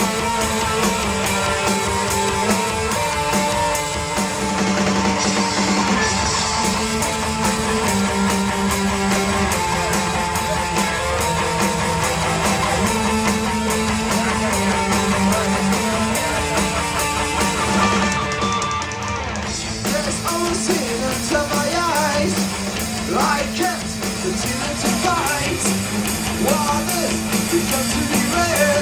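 Rock band playing: electric guitars over bass and a drum kit, with a brief dip about two-thirds through, after which a pitch-bending line, sung or a guitar lead, comes over the band.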